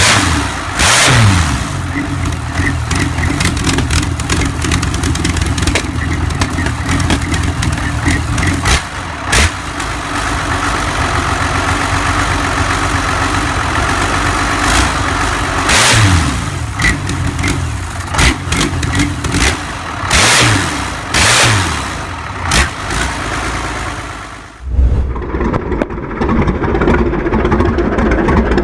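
Zvezda M50 high-speed diesel engine running and being revved in several short bursts, its pitch rising with each blip of the throttle. It cuts off abruptly near the end, replaced by a different engine running.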